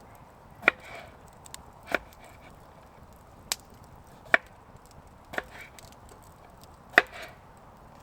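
Chopping strikes on wood: about six sharp, separate hits at irregular intervals roughly a second apart, each with a short ring.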